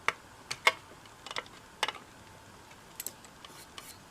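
Small metal hardware clicking and tapping against a metal radio chassis as a tube socket is fastened with screw, nut and screwdriver: a string of irregular sharp clicks, the loudest in the first two seconds.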